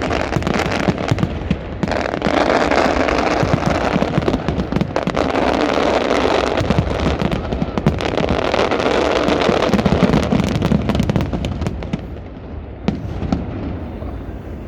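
Fireworks display: a dense, continuous barrage of bangs and crackling that thins out about twelve seconds in to a few separate bangs.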